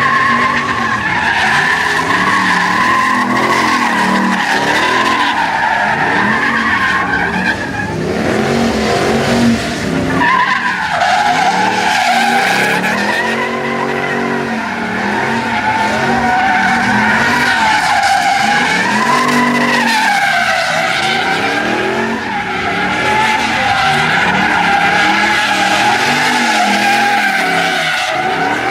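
A truck's tyres squealing on and on under a revving engine, the squeal wavering in pitch. The squeal drops out about eight seconds in and comes back about two seconds later.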